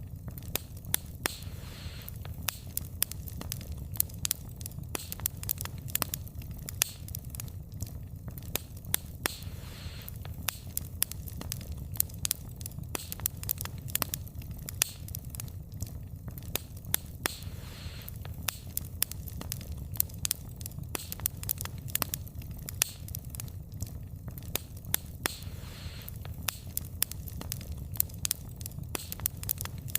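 Wood fire burning: a steady low rumble of flames with dense, irregular crackling and sharp pops of burning logs, a few louder snaps scattered throughout.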